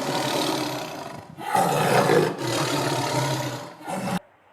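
Leopard growling and roaring in several long calls with short breaks between them, cutting off suddenly about four seconds in.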